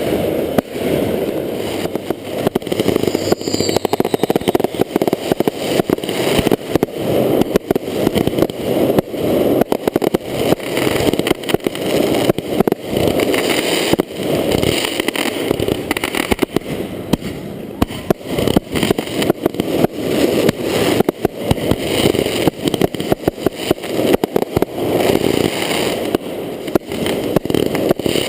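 Fireworks going off in a continuous rapid barrage of bangs and crackles, many pops a second, without a pause.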